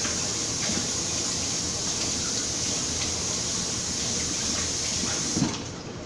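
Kitchen tap running steadily as a vegetable is rinsed under it, then shut off with a small knock about five and a half seconds in.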